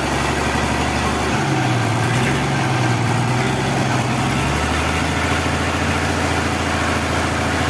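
Freshly rebuilt engine of a roughly fifty-year-old Toyota forklift idling steadily on its first run. About a second and a half in, its speed rises slightly and holds for about three seconds, then settles back to idle.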